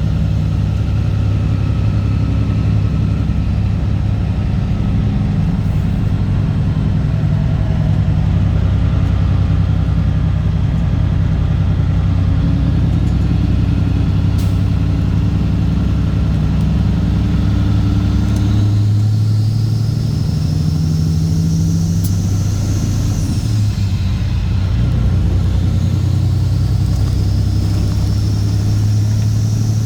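Straight-piped Caterpillar C15 ACERT inline-six diesel in a Kenworth W900 running steadily under way. The engine note changes about 18 seconds in.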